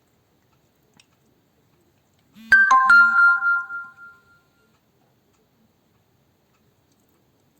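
Electronic chime: a short run of falling notes about two and a half seconds in, ringing out and fading over about two seconds, with a low buzz in two short pulses under its start.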